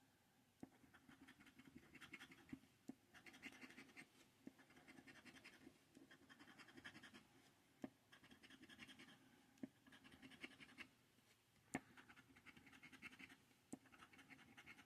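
Coin or scraper scratching the latex coating off a lottery scratcher ticket in short, repeated strokes, faint, with occasional small clicks.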